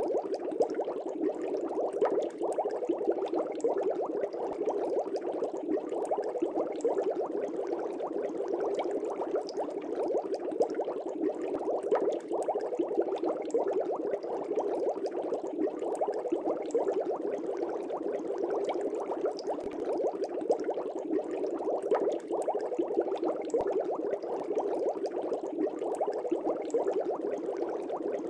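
Bubbles rising and bursting in an aquarium: a steady, dense bubbling.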